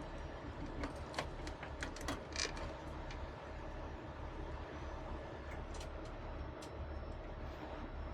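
Heavy rotator wrecker's diesel engine running steadily while it lifts a load, with a few sharp metallic clicks and a brief high ring in the first few seconds.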